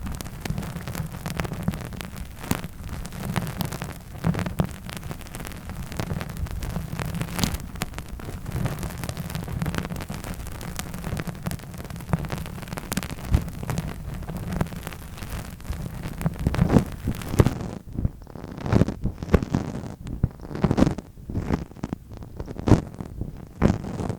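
Close-miked ASMR trigger sounds: a dense crackling, scratching texture full of small clicks. About two-thirds of the way through it changes to duller, muffled taps, roughly two a second.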